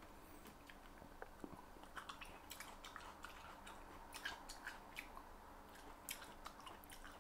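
Faint chewing of a mouthful of red dragon fruit and grapes with the mouth closed: quiet, scattered wet clicks and squishes.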